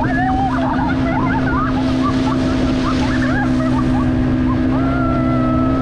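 Motorboat engine running steadily at speed, with high voices shouting and calling out over it in short wavering cries and one longer held cry near the end.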